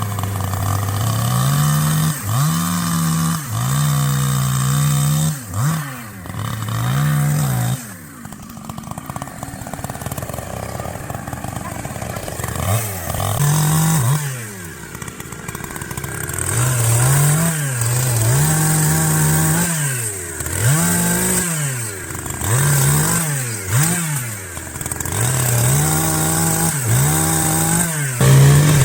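Chainsaw running at high revs, its pitch dropping and climbing back again and again as it cuts into wood and is throttled up.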